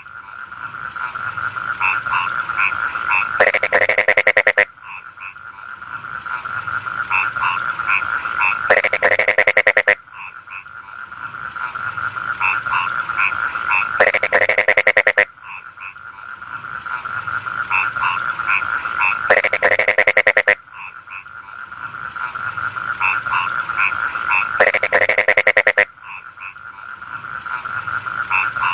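A chorus of rice-field frogs croaking: a steady trilling hum with rows of short pulsed calls. About every five seconds a louder run of fast croaks lasts about a second, and the same pattern comes round again and again.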